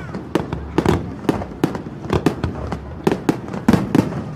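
Aerial fireworks bursting: a quick, irregular series of a dozen or so sharp bangs, several a second.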